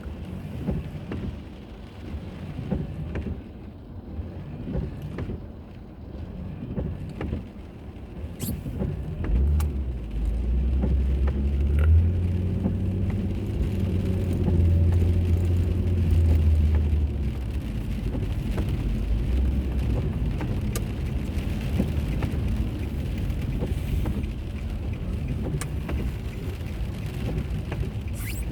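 A car driving, heard from a dashboard recorder inside the cabin: steady road and tyre noise with scattered light ticks. A low engine drone swells about ten seconds in and eases off around seventeen seconds.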